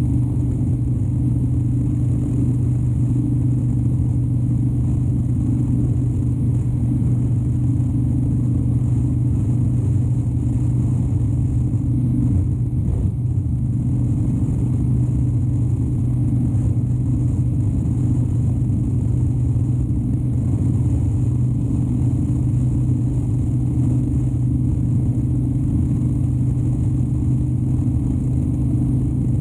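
2013 Harley-Davidson Dyna Wide Glide's 103-cubic-inch V-twin engine running at a steady pitch while the motorcycle rides along at an even speed.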